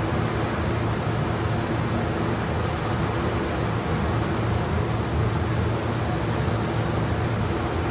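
Paint spray booth ventilation running: a steady rush of air over a low, constant hum.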